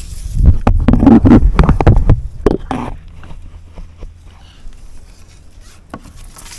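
Wind buffeting the action camera's microphone as a low rumble, mixed with irregular short knocks and splashes, easing off about three seconds in.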